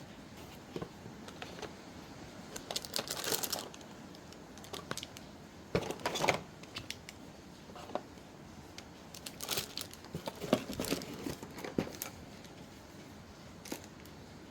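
Paper being handled: sheets rustling and crinkling in short, irregular bursts. Steady rain hisses underneath.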